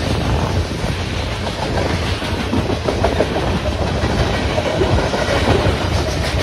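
Freight train cars, tank cars and covered hoppers, rolling past at speed: a steady low rumble of the wheels on the rails with irregular clacking and clanking as the wheels pass over the joints.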